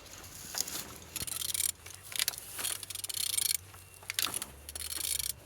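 Mercedes M271 four-cylinder engine being turned over by hand, with irregular metallic clicks and scraping and handling noise over a faint low hum. The engine turns freely, a sign that it is not seized.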